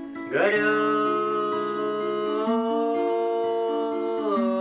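Acoustic guitar accompaniment under one long sung note that slides up into pitch a moment in, is held steady for about four seconds, and drops away near the end.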